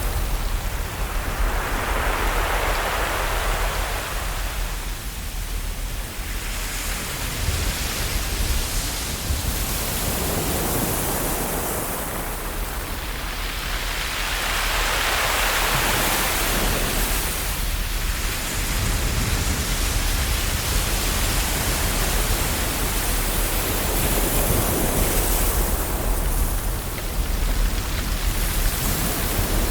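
Ocean waves breaking and washing on a shore: a continuous rush of surf that slowly swells and fades, with louder surges about every twelve seconds.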